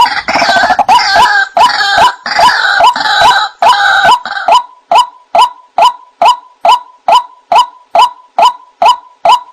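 White-breasted waterhen calling: a loud, dense run of harsh croaking calls that settles, about four and a half seconds in, into an even series of short 'kwak' notes, about three a second.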